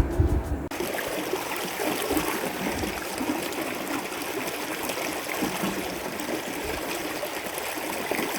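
Stream water running steadily, coming in suddenly less than a second in.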